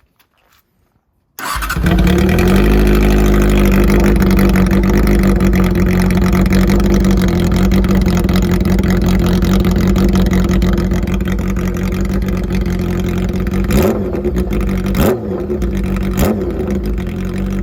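Honda CB400 Super Bol d'Or's inline-four engine starting about a second in and settling into a steady idle. Near the end the throttle is blipped three times.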